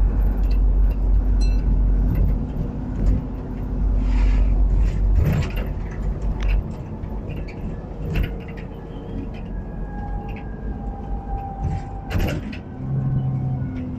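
Alexander Dennis Enviro 400 double-decker bus's diesel engine running, with a heavy low rumble for the first six seconds or so that then eases off. A thin, steady turbocharger whistle comes through in the second half, with scattered clicks and rattles.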